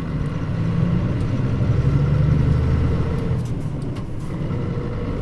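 Engine and drivetrain of a Mitsubishi Fuso Aero Star city bus (KL-MP35JM) heard from inside the cabin while driving, a low drone that swells under acceleration and eases off about three seconds in.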